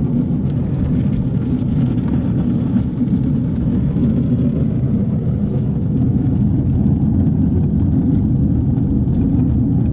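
Steady low rumble of a 7¼-inch gauge miniature train running along the track, heard from on board.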